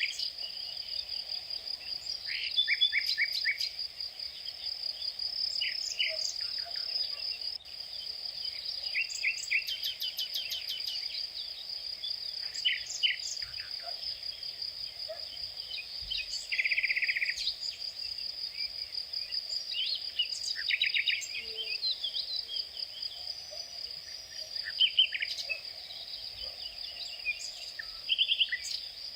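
A steady high insect trill runs throughout, with birds calling over it in short chirps and quick trills.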